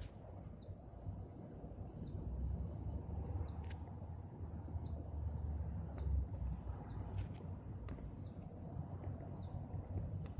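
A bird repeating a short, high, falling chirp about once a second, over a steady low rumble.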